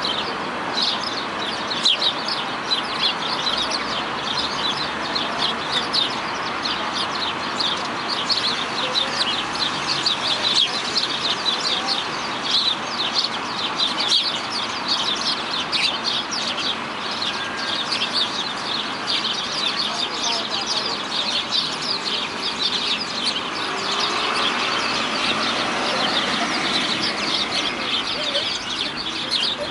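Many birds chirping and calling over one another in a dense, unbroken chatter.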